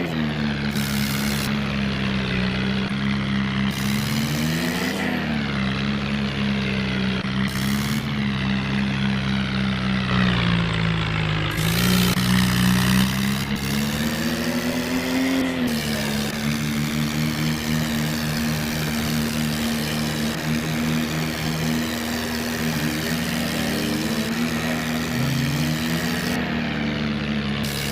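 Radio-controlled toy tractor running, a steady engine-like drone that swells up in pitch and falls back a couple of times as it speeds up and slows.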